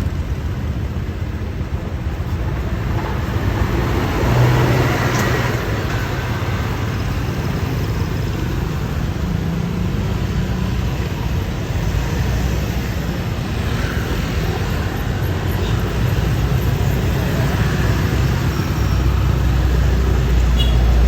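Scania K410iB coach's six-cylinder diesel engine running as the bus moves past, over steady road and traffic noise. The engine sound swells about four seconds in, and grows louder again near the end as a deep low hum.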